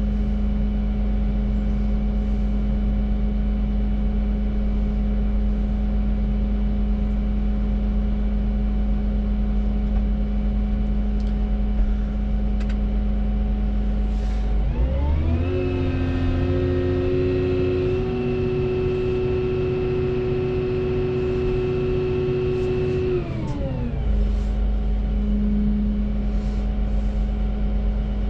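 Volvo EC235EL excavator's diesel engine running steadily, then revving up about halfway through, holding the higher speed for several seconds and dropping back to its lower speed.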